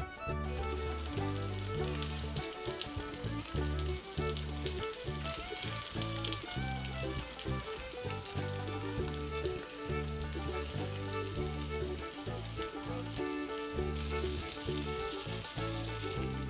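Flour-dusted chicken fillets sizzling steadily as they fry in melted butter and olive oil in a nonstick frying pan, over background music.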